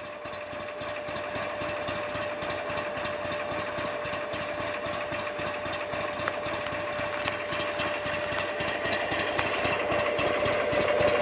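2005 Buell XB9SX's air-cooled V-twin engine idling through its exhaust, an even rapid pulsing that gets a little louder toward the end.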